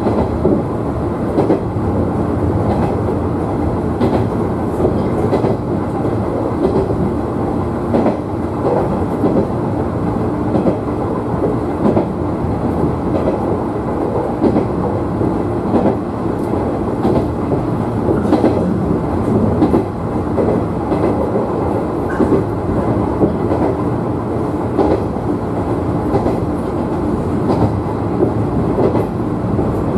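JR West 113 series electric train running at speed between stations: a steady rumble of wheels on rail, with frequent short clicks at irregular spacing.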